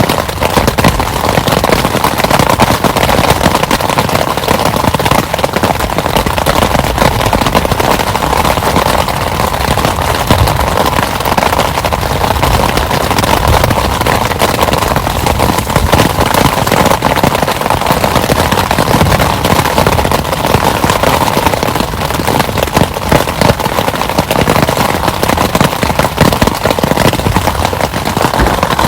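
Heavy rain falling hard: a loud, steady, dense crackle of drops striking close by.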